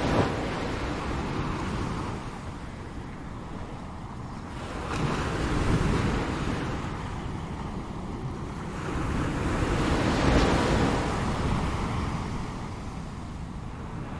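Ocean waves breaking on a shore, a wave surging about every five seconds: near the start, about five seconds in, and a louder one about ten seconds in, each fading back to a steady wash of surf between.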